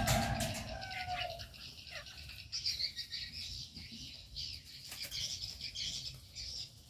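Aviary birds chirping repeatedly in high notes, with a louder burst of wing flapping and a short call at the start.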